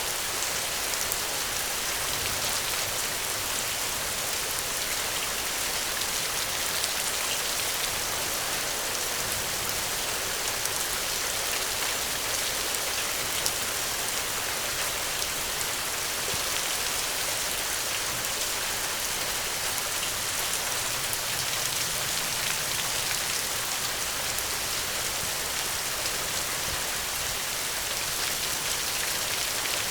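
Steady rainfall, drops pattering on a surface, with no thunder.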